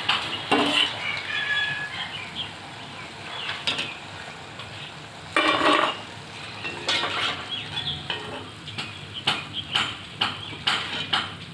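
Nimki sizzling in hot frying oil while a spoon clinks and scrapes against the pan as the fried strips are lifted out. A louder scraping burst comes about five and a half seconds in, and quick clinks run together near the end.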